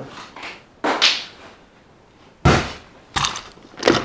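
Handling noise of objects being picked up and set down: a short rustle about a second in, then a loud knock about two and a half seconds in and two more clattering knocks near the end.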